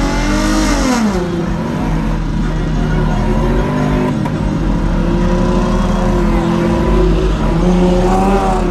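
Car engine revving over a steady idle: the pitch drops sharply about a second in, then climbs and falls in several smaller revs.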